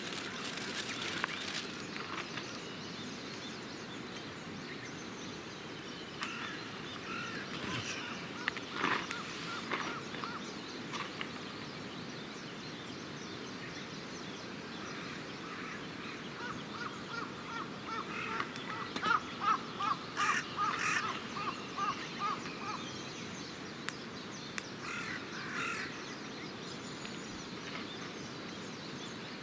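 Birds calling outdoors, with a long run of short, rapidly repeated calls past the middle, over a steady hiss and scattered sharp crackles from a campfire.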